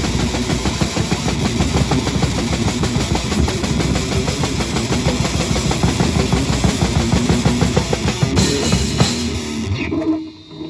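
Heavy metal band playing live: fast, dense drum kit hits under loud distorted guitars. The song stops abruptly near the end.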